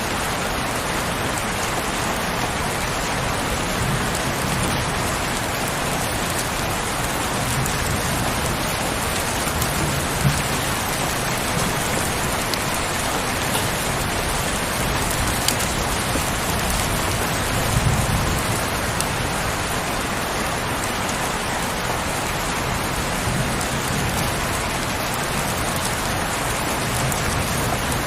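Heavy, steady rain, with a few sharper drop ticks and a brief low rumble about two thirds of the way through.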